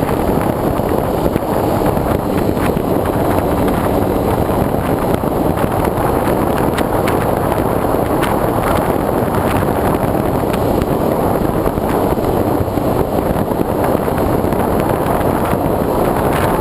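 Steady rush of airflow buffeting a GoPro's microphone on the wing of a foam RC airplane in flight, with a scatter of faint clicks.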